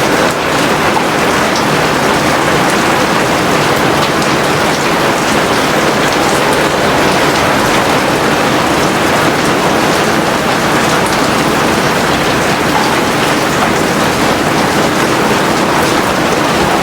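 Heavy rain falling steadily: a dense, even hiss of rain on surfaces with scattered sharp drop ticks, and no thunder.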